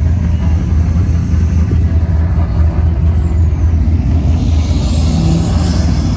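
A car engine running with a deep, steady rumble. A rush of higher noise swells about five seconds in.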